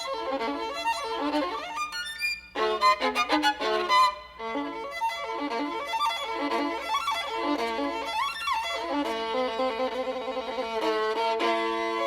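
Background music led by a solo violin, playing quick runs of notes and then longer notes with vibrato.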